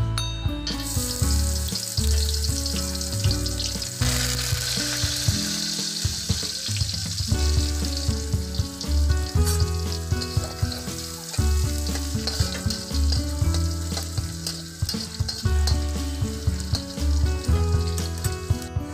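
Sliced onion, garlic, curry leaves and whole spices frying in hot oil in a wok: a steady sizzle that grows louder about four seconds in, with a metal spatula stirring and scraping against the pan. Background music plays underneath.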